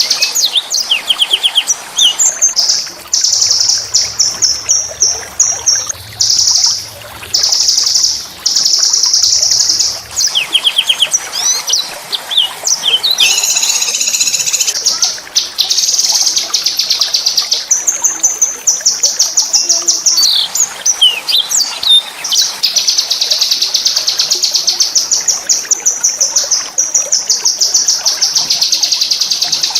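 A small songbird singing a high-pitched song of very rapid trills and rough, rolling buzzes, the trills running on for several seconds at a time with only short breaks.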